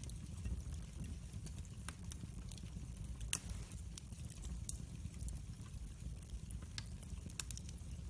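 Wood fire crackling, with scattered small pops over a steady low rumble and one louder pop a little past the middle.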